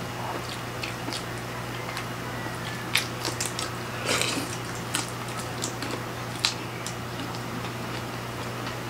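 Mouth sounds of eating octopus and shrimp by hand: biting and chewing, with scattered sharp clicks and crackles and a louder burst about four seconds in, over a steady low hum.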